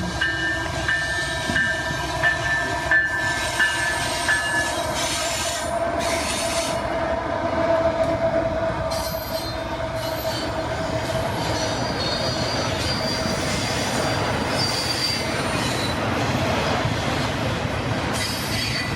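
Freight train passing at speed: locomotive engines and rolling wheels in a steady loud roar, with a long steady squealing tone. A bell rings a bit under twice a second for the first few seconds, then stops.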